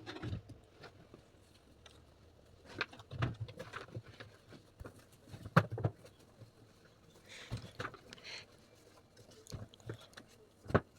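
Scattered light knocks and taps of vegetables and packaging being handled on a kitchen surface, with a brief rustle partway through. The sharpest knock comes about halfway through and another just before the end.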